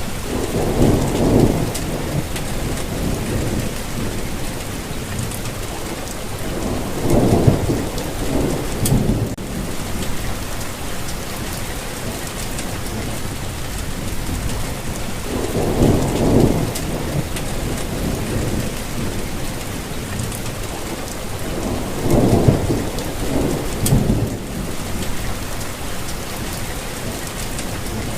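Steady rainfall with four low rolls of thunder, each lasting a second or two, spread through the stretch.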